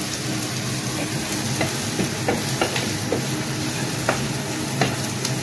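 Sliced onions with ginger and garlic paste sizzling in oil in a non-stick frying pan over a gas burner, being fried until brown, while a wooden spatula stirs them with irregular scrapes and taps against the pan.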